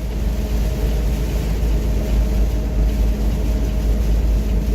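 Steady drone of a heavy truck driving through rain, heard from inside the cab: a deep engine and road rumble with the hiss of tyres on a wet, water-covered road.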